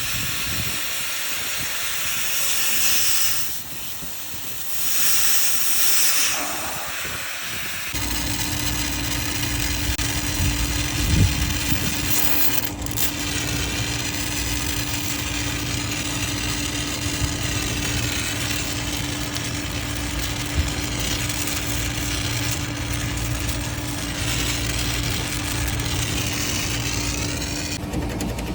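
Two bursts of pressurised gas hissing, then a motor starts about eight seconds in and runs with a steady hum.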